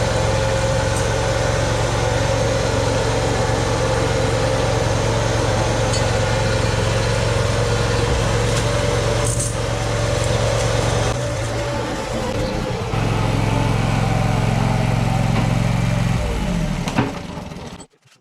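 Tractor engine running steadily. It eases off briefly about two-thirds of the way through, then its note falls away near the end, just before a sharp click and an abrupt cut.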